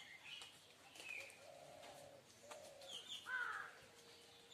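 Faint bird calls: scattered short chirps, a low held call and a falling call.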